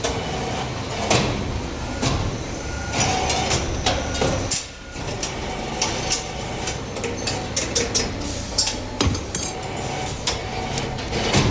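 Metalworking machinery in a workshop: repeated sharp metal clanks and knocks over a steady low machine hum.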